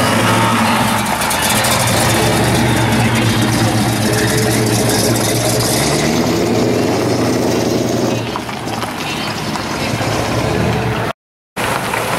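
V8 engine of a customized first-generation Chevrolet Corvette running at low speed as it drives past, its rumble rising briefly in pitch as it pulls away and then fading. Near the end the sound cuts out for a moment, then the engine of a vintage Ford coupe is heard as it rolls up.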